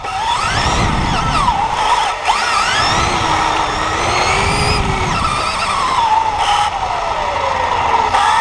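Radio-controlled cars' motors whining, the pitch rising and falling repeatedly as the throttle is worked, over a steady rough rumble of tyres on the court surface.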